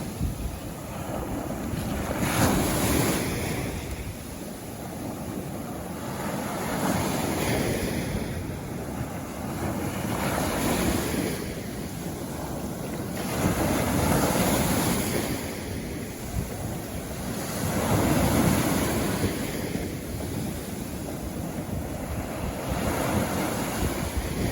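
Sea waves breaking and washing on a beach, one surge of surf every four seconds or so.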